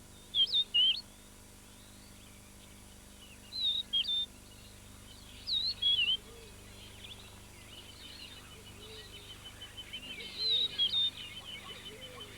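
Wild birds calling: a loud phrase of three or four short, sharply bending whistled notes, repeated four times at intervals of a few seconds, over fainter chirping from other birds. In the second half a fast, even run of notes and some lower calls join in.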